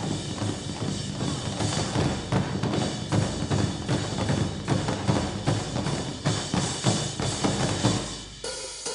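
Drum ensemble with cymbals playing a fast, dense rhythm of strokes. The playing thins out and gets quieter near the end.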